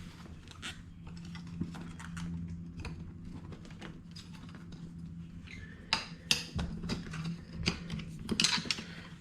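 Scattered metallic clicks and clinks of tools and wheel parts being handled while a scooter wheel is taken apart for a tube change, busiest and loudest in the second half, over a steady low hum.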